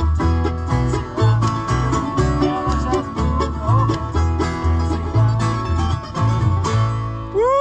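Bluegrass string band playing: banjo and guitar over bass notes, the tune ending about seven seconds in. A voice gives a rising-and-falling "woo" as it finishes.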